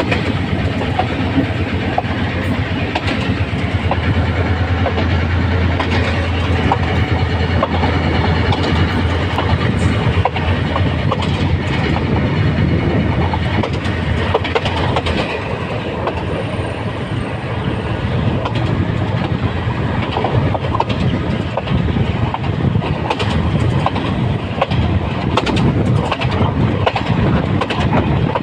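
A locomotive running at speed: a steady rumble of wheels on rail, with irregular clicks and knocks over the rail joints. A low drone underneath is strong at first and fades about fifteen seconds in.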